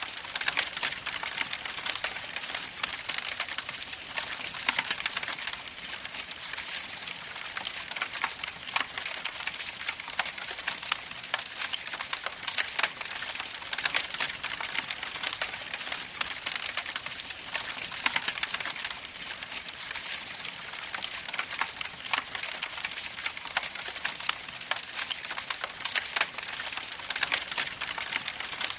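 Wood campfire crackling steadily: a dense run of small, irregular snaps and pops over a soft hiss.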